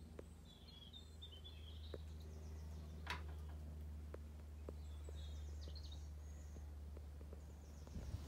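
Faint birdsong: a few short, high chirping phrases over a steady low hum, with a few small clicks, the sharpest about three seconds in.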